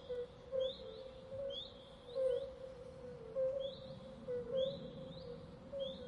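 Birds chirping: short rising chirps repeated every second or so, over a steady lower-pitched tone.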